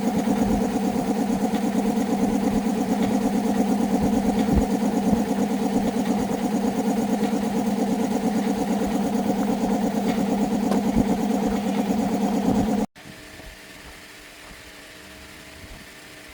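Small motorbike engine running steadily at idle. It cuts off abruptly about 13 seconds in, leaving a faint steady hum.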